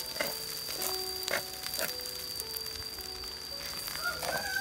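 Fried rice sizzling in a wok while a spatula stirs it, with a few short scrapes against the pan, under background music with a slow melody.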